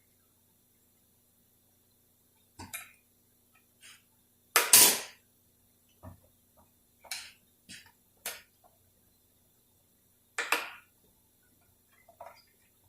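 Scattered metallic clinks and clanks of a wrench and socket on the 46RE transmission's shift linkage, working loose a nut that is stripping out; one louder clank comes about five seconds in.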